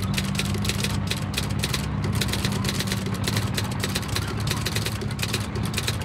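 Typewriter keys clacking in a quick, uneven run of strokes that stops near the end, over a low steady hum.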